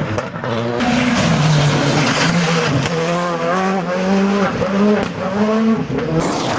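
Rally car on a gravel stage, its engine pitch climbing and dropping in steps as it changes gear, with the hiss of tyres and flung gravel coming in about a second in.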